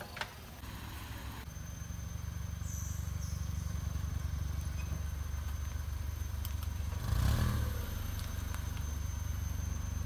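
Datsun GO hatchback's small three-cylinder engine idling steadily, heard low near the exhaust, setting in about a second and a half in. It is briefly louder about seven seconds in.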